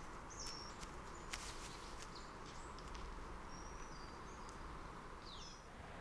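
Faint wild ambience: a few short, high bird chirps and whistles, one falling in pitch near the end, over a soft steady hiss.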